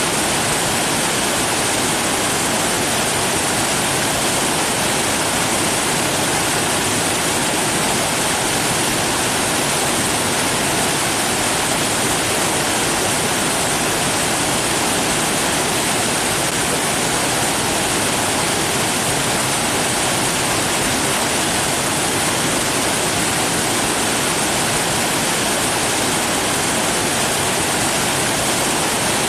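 Rushing water, a steady even hiss of falling or flowing water.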